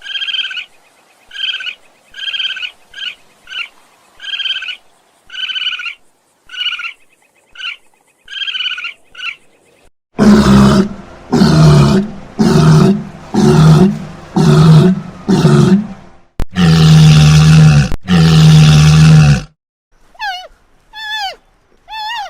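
A run of animal calls. First come short calls repeated about once a second for some nine seconds. Then, about ten seconds in, a series of very loud, deep roaring calls begins and lasts about nine seconds. Near the end there are a few quick falling chirps.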